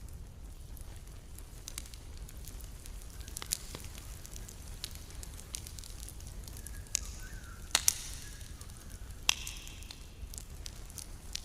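Campfire crackling, with scattered sharp pops over a low steady rumble; the loudest pops come about eight seconds in and again a second or so later.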